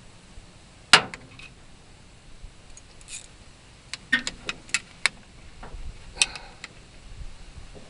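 Sharp metal clicks and clinks of hand tools and hardware while an ignition coil is being fitted on a tractor: a single loud clink about a second in, a quick run of clicks around the middle, and another clink near the end.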